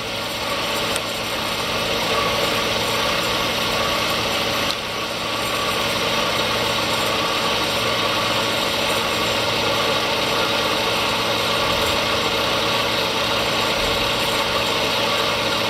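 A 1989 Comet 2 HP vertical milling machine with a step-pulley head runs steadily, its spindle turning under power quill feed as the quill travels upward. It is a steady motor-and-belt hum with a slight dip about five seconds in.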